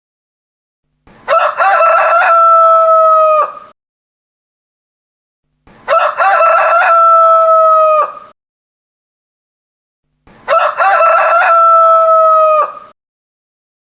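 A rooster crowing three times, evenly spaced, with silence between. Each crow is about two and a half seconds long: a choppy, broken start, then a long held note that drops off at the end.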